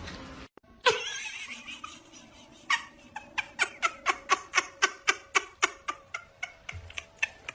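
A series of short, evenly spaced vocal calls, about three or four a second, in a steady rhythm, after a single sharper sound about a second in.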